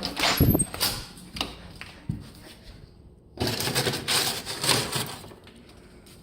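Clattering knocks and rustling while dog treats are got out: a burst of clatter in the first second and a longer one about three and a half seconds in, with a few single clicks between.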